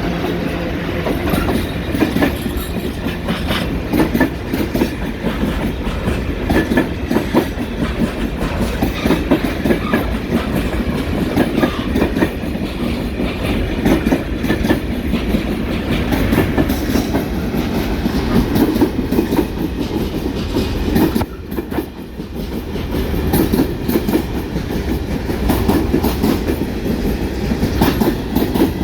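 Freight train wagons rolling past, wheels clattering over the rail joints with a steady clickety-clack and metallic rattle. The noise dips briefly about two-thirds of the way through, then carries on.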